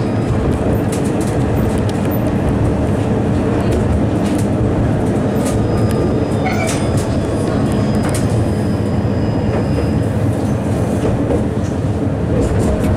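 Vityaz-M low-floor tram running on its rails, heard from inside the car: a steady loud rumble with scattered clicks from the wheels on the track. A faint high whine joins for a few seconds in the middle.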